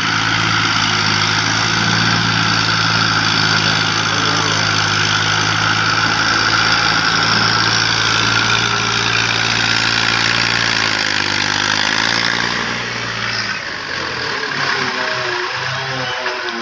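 Tractor diesel engine running steadily. About twelve seconds in its pitch sags and the steady note fades away.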